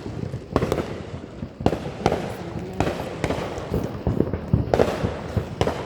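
Fireworks going off: about ten sharp bangs, irregularly spaced, some coming in quick pairs.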